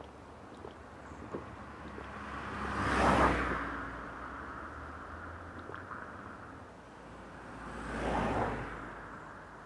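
Two vehicles passing on a nearby road, each swelling up and fading away over a couple of seconds: the louder one about three seconds in, a quieter one about eight seconds in.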